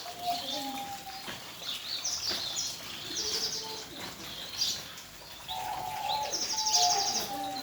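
Several birds chirping and calling, with bursts of rapid high trills and lower held calls.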